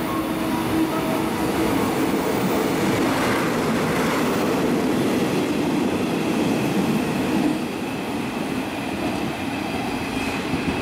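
A DD51 diesel-hydraulic locomotive passing through close by, its engine running, followed by a string of empty flat wagons rolling past on the rails. The sound swells as the locomotive goes by a few seconds in, then stays a steady rolling rumble.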